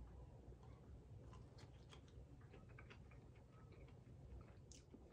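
Faint chewing of a piece of roasted okra: a scattered run of small soft clicks of mouth and teeth, starting about a second in. The pods are charred but not crispy.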